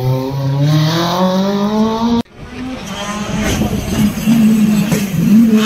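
Rally car engine accelerating hard, its note rising steadily in pitch, cut off abruptly about two seconds in; then a steadier engine note under rushing noise.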